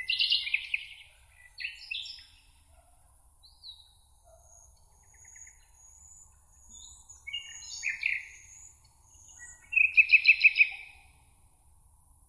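Several songbirds singing in separate phrases, with thin high notes from a more distant bird. The loudest is a fast trill of about seven repeated notes near the end.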